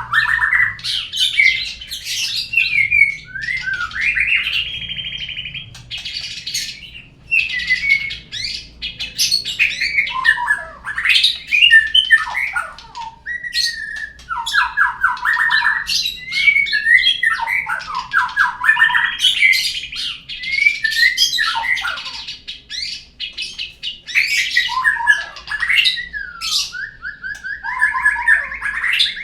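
White-rumped shama (murai batu) song from a lure recording played to prompt a bird to sing: a continuous run of varied whistled phrases, fast trills and harsh notes with short gaps between them.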